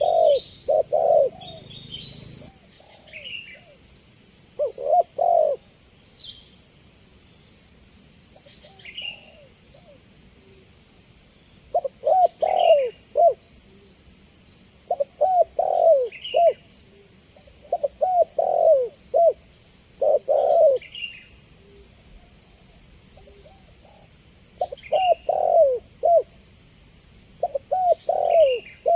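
Spotted dove (tekukur) cooing in repeated phrases of several low notes, with pauses of a few seconds between phrases. A smaller bird gives short high chirps about every two seconds, over a steady high-pitched hiss.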